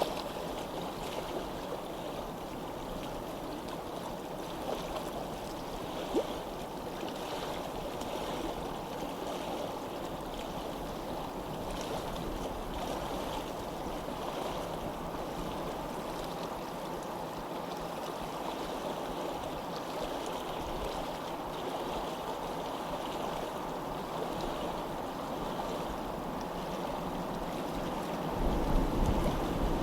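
Steady rushing of flowing water, like a stream. Near the end a louder, deeper rushing sound comes in.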